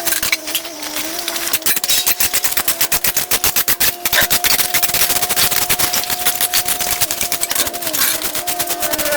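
Small engine of a handheld power cutting tool running at high revs, over a dense, rapid clatter. Its pitch steps up about two seconds in and holds steady, dipping slightly near the end.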